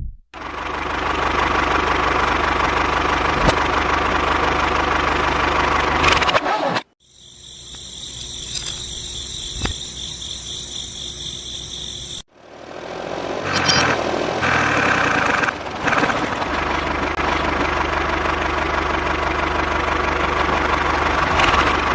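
A small motor running steadily in three separate takes, split by abrupt cuts. The middle take is quieter, with a higher whine.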